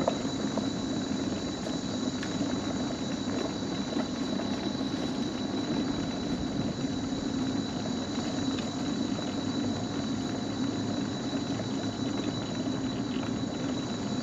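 Insects buzzing steadily at a high pitch, over a low steady rumble.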